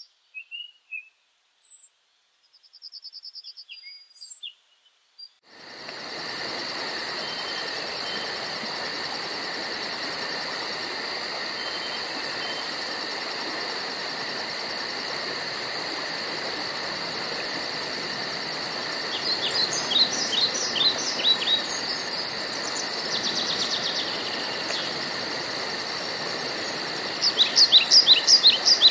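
Woodland birds chirping in short, separate calls. About five seconds in, a dense chorus of insects starts abruptly, with a rapid high pulsing over a steady hiss. Songbirds break in with quick runs of falling notes twice in the second half.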